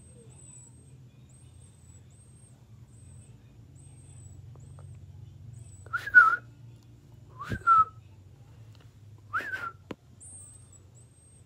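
Baby birds giving thin, high, rapidly repeated begging cheeps, broken by three short whistled calls from a person, each rising then falling in pitch. The cheeping stops during the whistles and starts again right after the last one, the nestlings answering the call they know.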